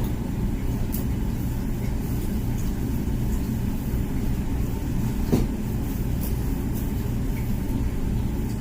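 Comfee dishwasher running mid-cycle: a steady low hum and rumble of the wash pump and water, with a single knock about five seconds in.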